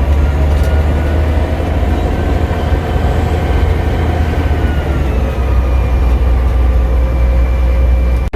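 Caterpillar D6D crawler dozer's six-cylinder diesel running steadily under way: a deep low engine drone with a steady whine over it that dips slightly in pitch near the middle.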